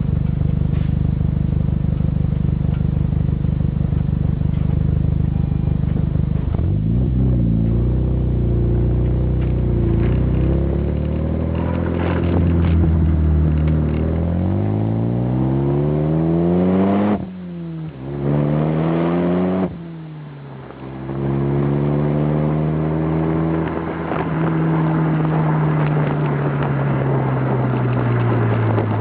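Renault Mégane III RS's 2.0 turbo four-cylinder through a Ragazzon full stainless steel exhaust with 70 mm pipe. It idles steadily at first, then revs climb slowly for about ten seconds before the throttle shuts sharply. A short blip follows, then another long rise and slow fall in revs.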